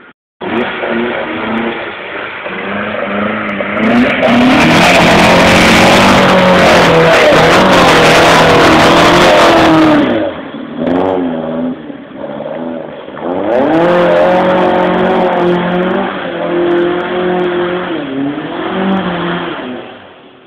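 Classic car's engine revving hard under load as it climbs a steep trials section, the engine note rising and falling with the throttle. It is loudest from about four to ten seconds in, with a rushing noise over it, then drops back and picks up again before fading near the end.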